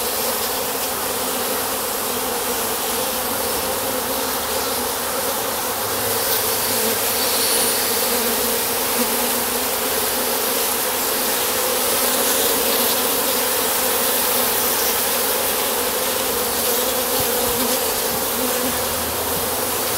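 Honeybees buzzing around an open top-bar hive: a steady, dense hum of many bees in flight.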